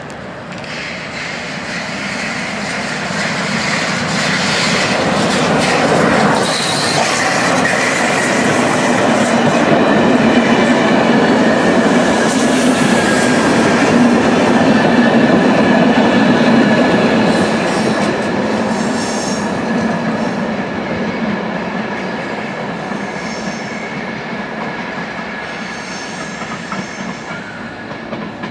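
Steam-hauled passenger train passing close on a curve, with the coaches' wheels clattering and squealing against the rails. It grows louder to a peak about halfway through, then slowly fades as the train pulls away.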